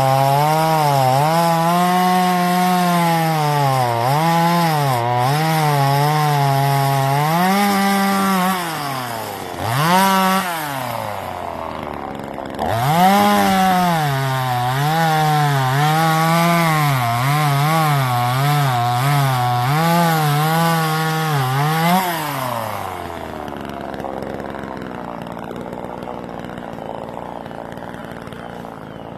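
TimberPro CS2500 25cc top-handle two-stroke chainsaw cutting wood at full throttle, its engine pitch dipping and recovering over and over as the chain loads in the cut, with two short drops of the throttle around ten and twelve seconds in. About 22 seconds in the throttle is released and the engine note slides down and fades, leaving a quieter low sound.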